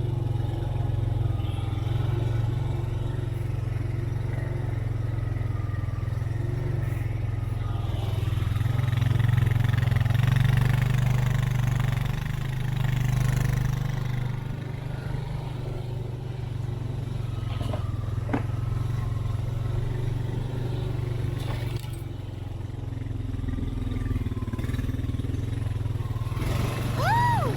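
Off-road vehicle engine running steadily while driving along a woods trail, getting a little louder about a third of the way in. Near the end a short squeak rises and falls in pitch.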